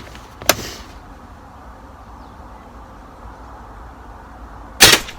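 A single rifle shot near the end, sharp and loud. A shorter, softer knock comes about half a second in.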